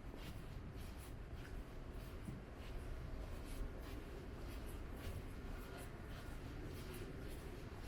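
Quiet ambience of a walk along a rainy street: a low steady rumble with scattered light ticks and scuffs.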